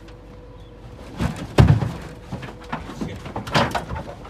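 Heavy thumps and bangs against a car's rear door and body, an ostrich kicking as it is forced into the back of the vehicle. The loudest bang comes about a second and a half in, with a cluster of smaller knocks around three and a half seconds.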